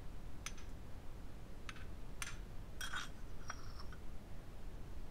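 A metal spoon clinking lightly against a ceramic bowl about five times as it scoops into a soft onsen egg in broth, over a low steady hum.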